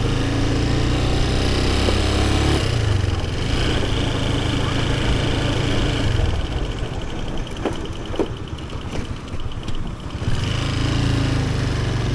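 Motorcycle engine running under way, a steady low drone that drops back about two and a half seconds in, goes quieter for a few seconds, then picks up again near the end.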